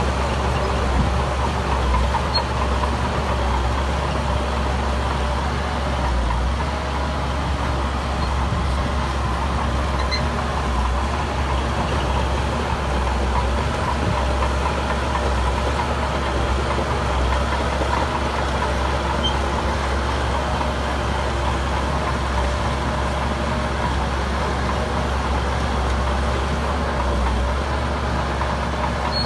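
Heavy construction machine's diesel engine running steadily at an even level, with a deep low rumble.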